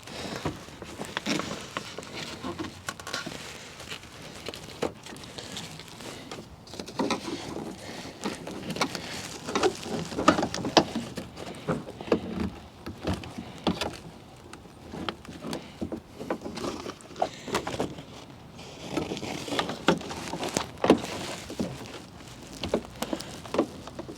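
Hands prying and working a factory speaker loose from a pickup truck's door: irregular plastic clicks, knocks and rustling, with no steady rhythm.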